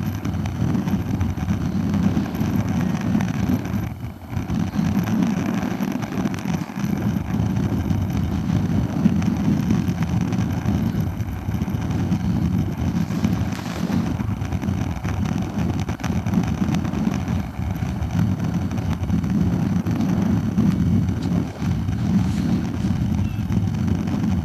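Sea breeze buffeting the microphone in a continuous, gusty low rumble, with a fainter wash of surf behind it.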